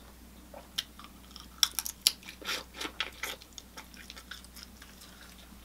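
Close-miked chewing and lip-smacking while eating boiled seafood: a run of short wet smacks and sharp clicks, thickest in the first few seconds, then quieter.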